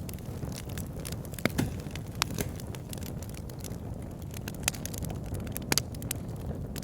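Logs burning in a wood fire: a steady low rumble of flames with irregular sharp crackles and pops, a couple of louder snaps about one and a half and nearly six seconds in.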